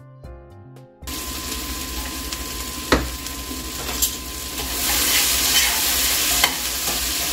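Background music for about the first second, then food sizzling as it fries in a stainless steel pot on a gas stove. The sizzle gets louder about five seconds in, with a few sharp clicks from handling the pot.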